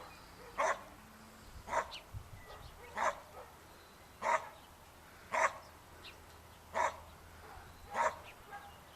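A dog barking, seven single barks at a steady pace about once a second.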